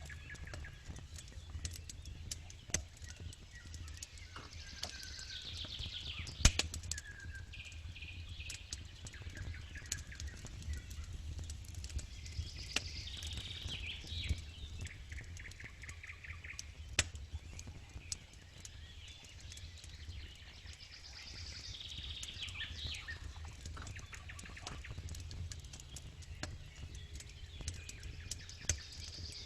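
Wood campfire crackling, with irregular sharp pops, one louder snap about six seconds in. Birds sing in repeated chirping phrases in the background.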